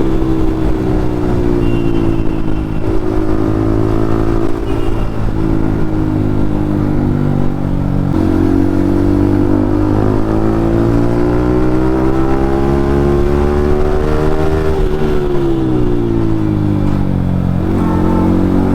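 Yamaha MT-15's 155 cc single-cylinder engine through an aftermarket Akrapovic exhaust, ridden under throttle. The pitch climbs and drops back several times in the first eight seconds as it shifts up, then rises steadily for a long stretch, falls off the throttle about fifteen seconds in, and picks up again near the end.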